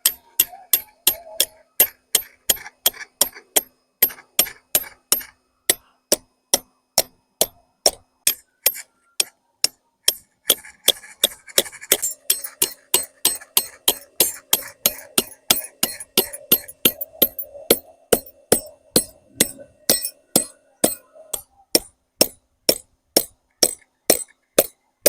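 Sharp, evenly paced knocks, close to three a second, with a faint steady hum through the middle stretch.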